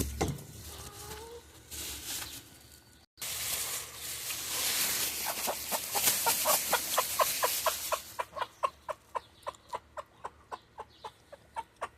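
Young chickens clucking, a quick run of short, evenly spaced calls about three or four a second, starting about five seconds in, over a steady hiss that fades out after eight seconds.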